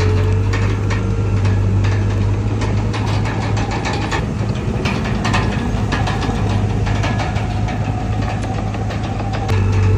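Heavy diesel engine of a crawler bulldozer running steadily, with many sharp metallic clicks and clanks over it. The deep engine hum drops back a second or two in and rises again with a step up in loudness near the end.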